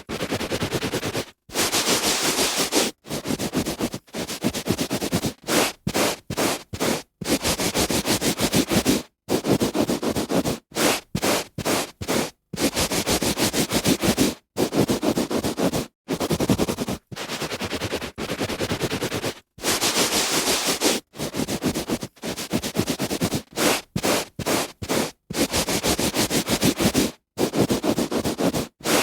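A hand rubbing back and forth on a carpet: a rough scrubbing noise in repeated strokes, some short and some up to about two seconds long, with brief silent gaps between them.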